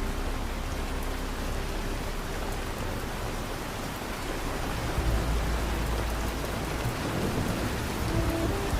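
Steady rain falling, an even hiss, with a deep low rumble of distant thunder starting about five seconds in and lasting a couple of seconds.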